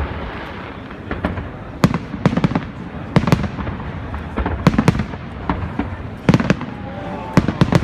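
Aerial fireworks display: shells bursting in clusters of sharp bangs, a few per second at the busiest moments, over a steady crackling haze.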